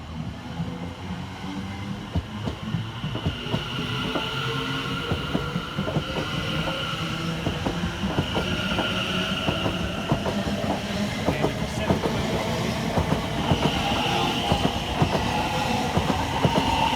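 Electric passenger train running on the line, its wheels clicking rapidly over the rail joints with a high steady whine above a low rumble. It gets louder throughout.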